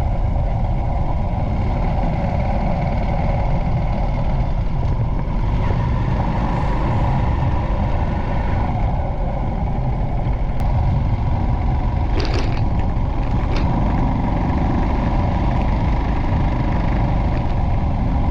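Motorcycle on the move: steady engine and road noise under heavy wind rumble on the microphone, with two brief sharper sounds about twelve and thirteen and a half seconds in.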